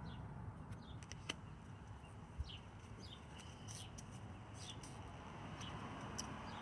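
Faint, short falling chirps from a small bird, repeating about once a second, with a couple of light clicks and a soft thump from playing cards being handled.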